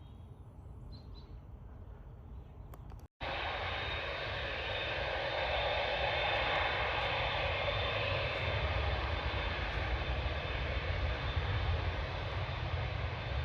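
Jet airliner engine noise, a steady rush with a deep rumble, that starts abruptly about three seconds in after a brief break in the sound and stays loud to the end.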